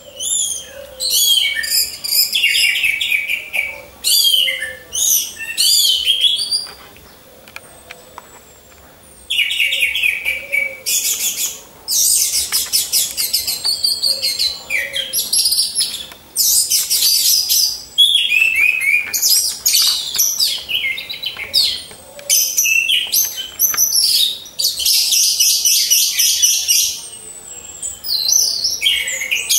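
Orange-headed thrush song: bursts of rapid, varied, high chirping and warbling phrases, with a brief lull about a third of the way in.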